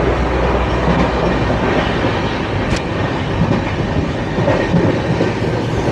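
Passenger train running along the track, the wheels rumbling on the rails, heard from an open carriage doorway, with one sharp click near the middle.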